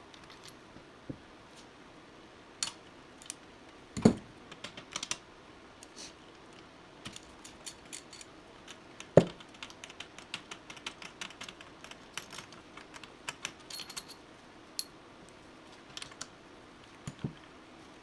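Metal hand tools and parts clinking and clattering in scattered small clicks, with two louder knocks about four and nine seconds in.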